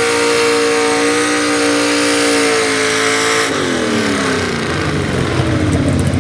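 Two-wheel-drive super stock pulling truck's engine running at high, steady revs under load; about three and a half seconds in, the revs fall away in a long downward slide while rough low rumble builds.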